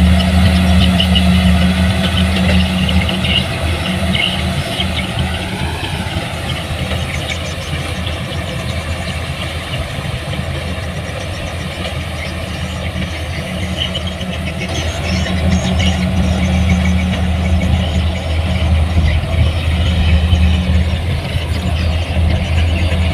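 A heavy machine's engine running steadily, with a deep, even hum; it eases slightly partway through and picks up again.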